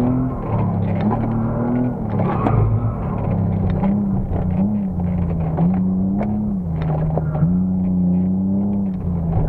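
Mercedes CLK 320's 3.2-litre V6 heard from inside the cabin, revving up and easing off several times as the car is driven hard, then holding a steadier pitch near the end. A few sharp knocks and clicks sound over the engine.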